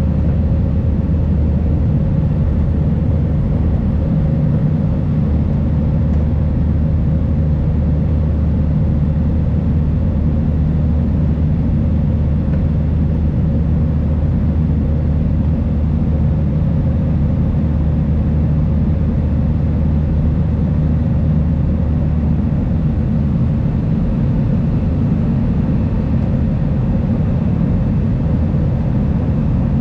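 Steady cabin noise of an Airbus A320-200 climbing out after takeoff: the engines running at climb power with the rush of air, a strong low hum and a faint steady higher tone.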